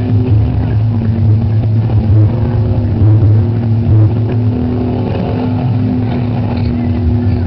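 Chevrolet Chevette's four-cylinder engine revving hard and held at high revs, the pitch shifting now and then, as the car spins donuts in a tyre-smoking burnout.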